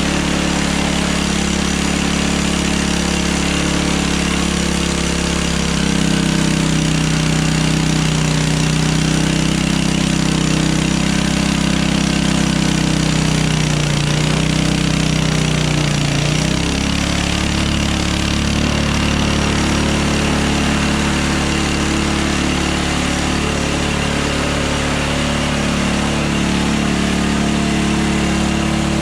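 Hudson Hunter band sawmill's engine running steadily. Its note shifts about six seconds in and wavers between about fourteen and seventeen seconds in.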